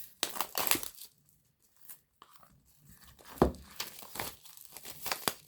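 Plastic wrapping on a CD album being picked at and torn open with fingernails, crinkling and tearing in short bursts with quiet gaps between.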